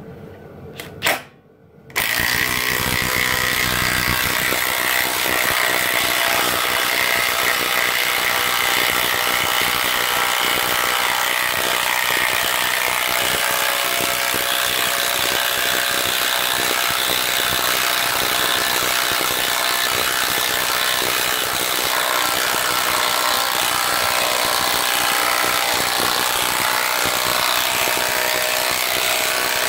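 Makita cordless impact driver set to high, hammering continuously as it drives a large lag bolt into 2x4 lumber. It starts about two seconds in and runs at a steady level.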